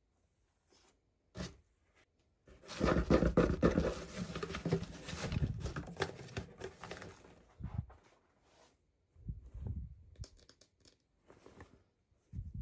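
Toy packaging being torn open and crinkled by hand: a click about a second in, then about four seconds of dense tearing and crackling, then scattered light handling noises.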